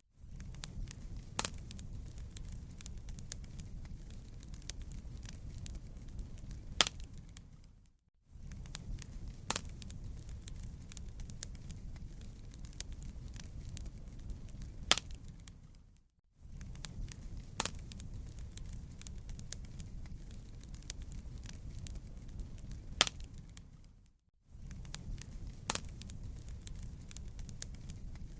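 Wood fire crackling in a fireplace: a steady low rumble with sharp pops every few seconds. The recording is a short loop that briefly drops out and fades back in about every eight seconds.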